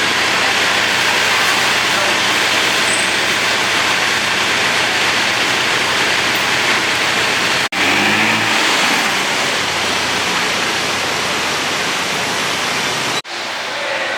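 Loud, steady road-traffic noise from cars on a city street, cut off abruptly twice.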